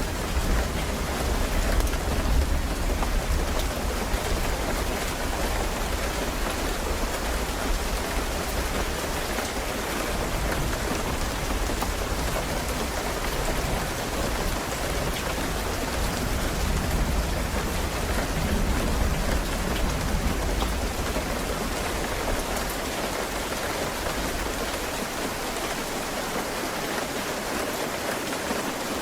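Steady rain falling, with scattered drop patter, under a low rumble of thunder that dies away over the second half.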